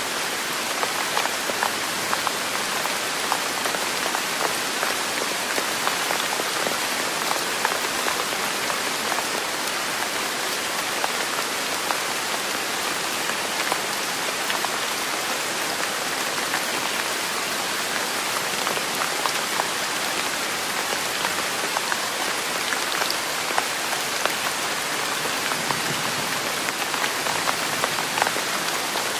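Steady rain falling on a surface, an even hiss dotted with many small separate drop hits, unchanging throughout.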